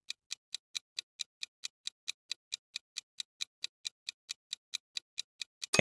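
Clock-tick sound effect, about five quick even ticks a second, counting down the time to answer a quiz question.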